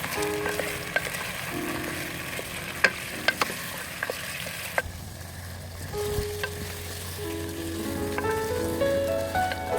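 Food sizzling as it fries in hot oil, with a few sharp clicks in the first half; the sizzle thins out about halfway through. Soft background music with mallet-like notes plays over it.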